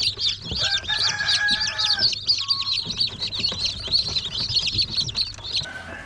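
Chickens calling, mostly a dense chorus of many rapid, high-pitched peeps like young chicks. A longer, lower held call stands out about a second in. The peeping stops abruptly near the end.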